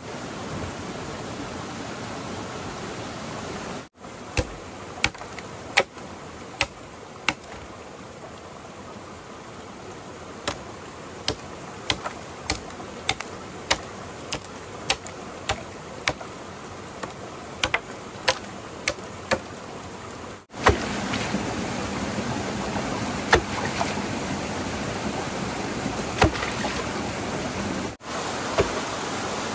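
Running water from a stream or small waterfall, a steady rushing hiss. From about four seconds in there is a run of sharp knocks, irregular and roughly one or two a second, for about fifteen seconds. After a cut the water is louder, with a few more knocks.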